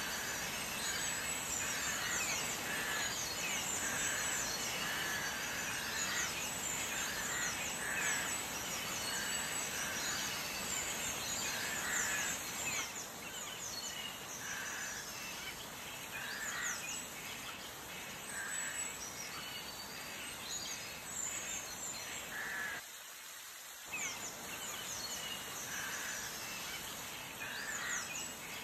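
Birds calling in the background: harsh calls repeating about once a second and quick high twittering, over a steady hiss.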